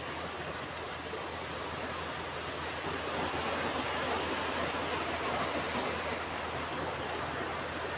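Ocean waves washing onto a beach in a steady rush, swelling a little louder about three seconds in.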